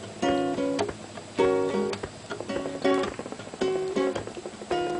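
Acoustic guitar strummed in short, choppy chords, about two a second, accompanying a sing-along.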